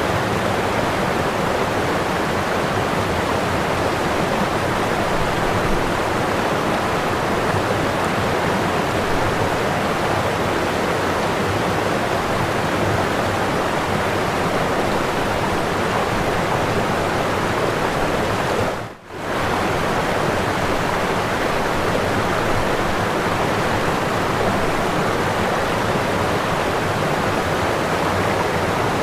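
Whitewater pouring over a waterfall: a steady, full rushing roar. About two-thirds of the way through it fades out for a moment and comes straight back.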